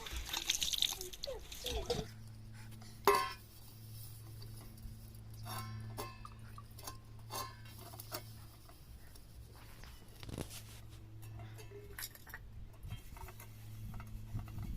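Metal kitchen utensils and dishes clinking against one another, with one sharp ringing clink about three seconds in and scattered lighter clinks after it, over a steady low hum.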